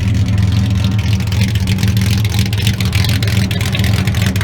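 Classic car's engine and loud exhaust running at a steady low note, with a rapid crackle over the drone.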